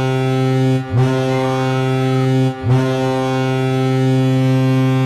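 Hockey goal horn sounding in long, loud blasts, with short breaks about a second in and again past the middle, each new blast starting with a quick upward slide in pitch: the signal of a goal just scored.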